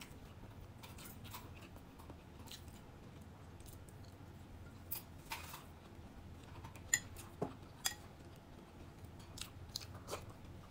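Close-up chewing and mouth smacks of someone eating crispy fried milkfish with rice, with scattered sharp crunchy clicks. The loudest come in a cluster about seven to eight seconds in.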